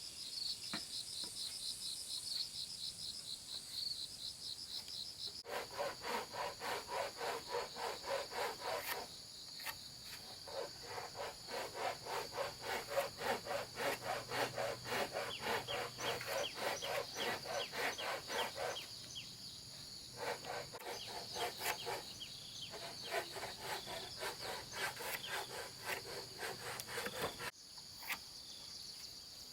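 Insects chirping in a fast, even pulse. After about five seconds a hand saw starts cutting wood in quick, even back-and-forth strokes, in three bouts with short pauses, over the steady chirping.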